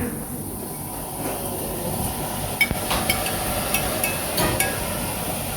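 Steady low rumble inside a moving vehicle, with a few light clicks and rattles in the middle.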